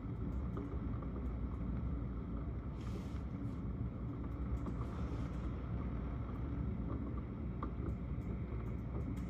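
Steady low rumble of rain outside a window, with faint scattered drip ticks and a couple of brief hissing swells about three and five seconds in.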